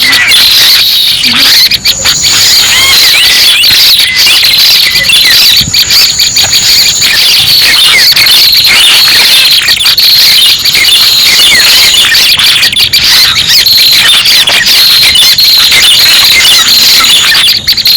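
Lure recording of red-headed prenjak calls used to draw birds in for trapping: loud, dense, unbroken high chirping and squeaking, many short calls overlapping over a steady high buzz.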